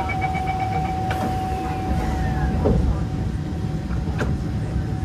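Inside an MRT train carriage: the train's steady low rumble with a constant hum, a quick run of short beeps in the first second, and a couple of brief knocks.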